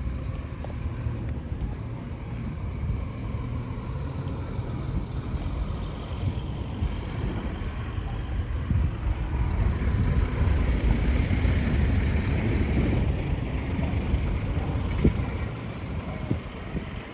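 Low outdoor rumble with no clear engine note, building up through the middle and easing off near the end.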